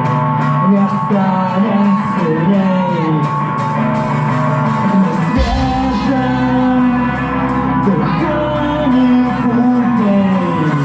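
Rock band playing live with singing over guitar, regular cymbal ticks above; a deep bass part comes in about halfway through.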